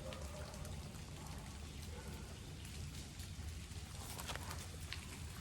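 Quiet room tone: a steady low hum and faint hiss, with a few faint soft rustling clicks about four seconds in.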